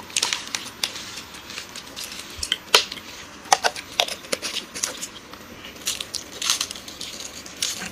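Chewing and crunching of chocolate wafer snacks: irregular, crisp crunches.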